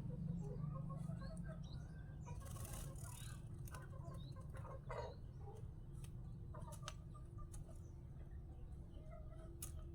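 Scattered short bird chirps and clucks, with a few sharp clicks, over a steady low hum.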